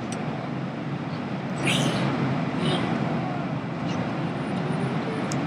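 Steady airliner cabin noise in flight: an even rush of jet engine and air noise.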